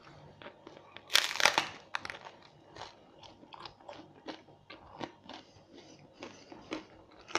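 A bite into a homemade pita-bread pizza, loud and noisy about a second in, followed by close-up chewing with many small crackles.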